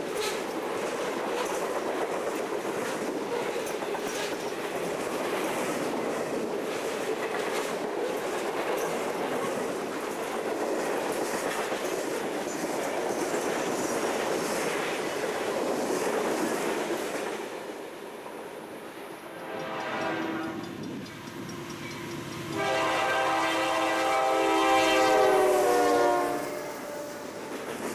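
Freight train hopper cars rolling past: a steady rumble with wheel clatter over the rail joints. Then a diesel locomotive's air horn sounds a chord, a short blast about 20 seconds in and a longer, louder blast a few seconds later as the Norfolk Southern locomotive passes close by.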